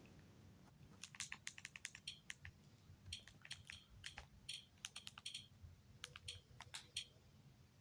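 Faint typing on a computer keyboard: irregular runs of key clicks, with short pauses between them.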